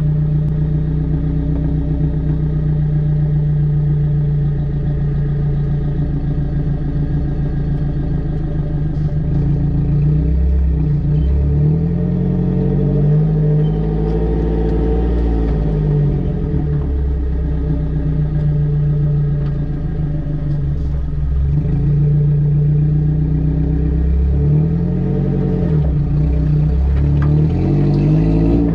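Vehicle engine running while driving over a rough track, its pitch swelling up and falling back twice, about halfway through and again near the end.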